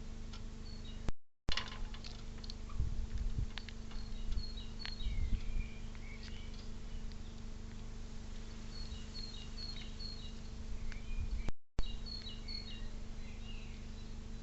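Small birds chirping with many short, high notes, some in quick runs, over a steady low electrical hum, with a few low rumbles. The sound cuts out briefly twice.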